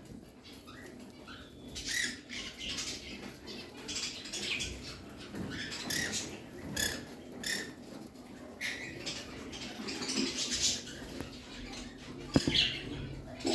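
A parrot nibbling and crunching corn kernels: irregular short crunches every half second or so, with a sharp click near the end.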